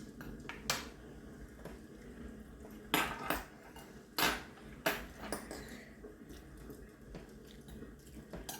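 Cutlery knocking and clinking against dishes in a handful of scattered sharp clicks, the loudest about three to five seconds in.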